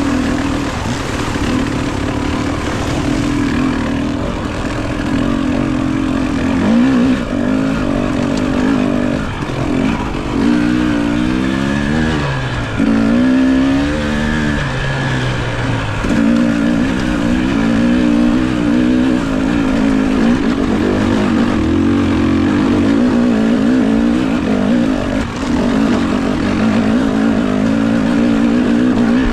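Enduro dirt bike engine running on the trail, its pitch rising and falling with the throttle, with a stretch of repeated revving up and down about a third of the way through.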